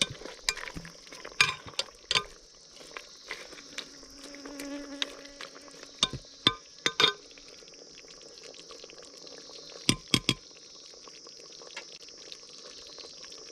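Steady high-pitched insect chirring with a fly buzzing close by about four to five seconds in, and scattered sharp clicks and knocks of cooking utensils being handled.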